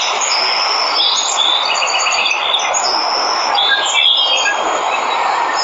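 Steady rush of falling water from a waterfall, with several birds chirping and whistling over it.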